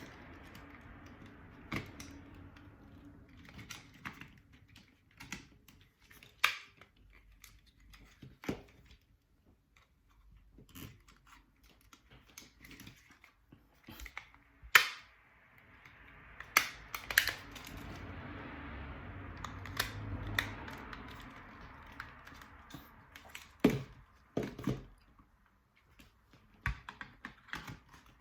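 Irregular small clicks, taps and rattles of drone parts and small tools being handled during a repair. A soft hiss is present at the start and comes back for a stretch in the middle.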